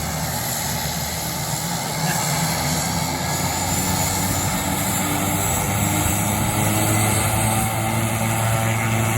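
Light propeller aircraft engine running steadily, growing louder about two seconds in.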